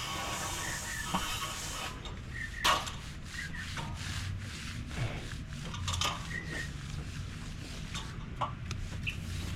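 Hand finishing tools scraping and rubbing across wet concrete in a run of short strokes, with one louder scrape a little under three seconds in. A steady hiss comes before the strokes begin.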